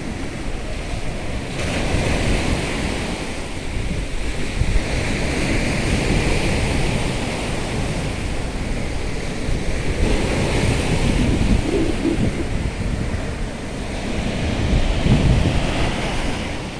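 Sea waves breaking against the shore, the surf swelling and falling back every few seconds, with a low rumble of wind on the microphone.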